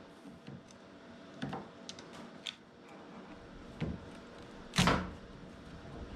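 Scattered clicks and knocks of car parts and tools being handled, with one louder knock just before five seconds in.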